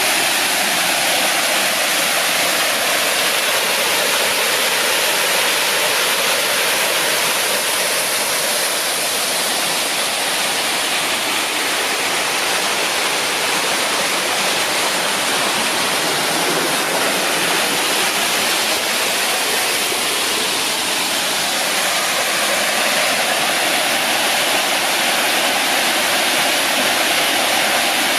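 Rushing water: a steady, full-range hiss of fast-flowing water that swells and eases slightly in tone.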